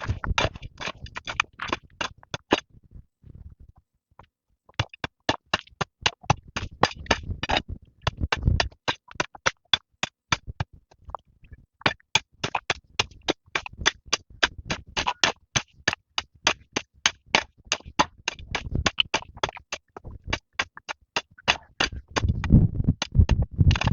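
Rapid, regular strikes of a tool on bamboo, about four a second, in long runs with short pauses between them and a few duller thuds mixed in.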